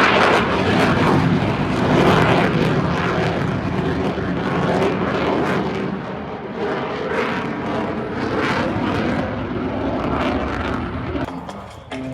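F/A-18F Super Hornet's twin jet engines at full power during a display flight: loud, ragged jet noise with a crackle, swelling and easing, then dying away near the end.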